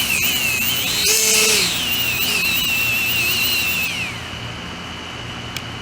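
Brushless 50 mm electric ducted fans on a quadcopter spinning with a high, wavering whine. The whine surges briefly about a second in, then winds down and stops about four seconds in. Two of the fan propellers have broken blades, and they still spin but not well.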